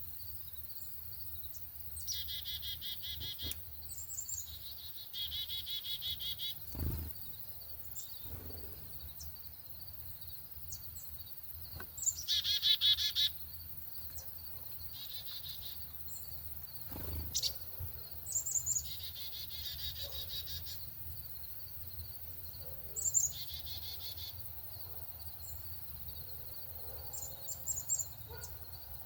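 Songbirds singing: a repeated trilled song of one to two seconds comes about six times, with short high chip notes in between. Under the birds there is a faint steady high tone and a low rumble, and two dull thumps come about a third and two thirds of the way through.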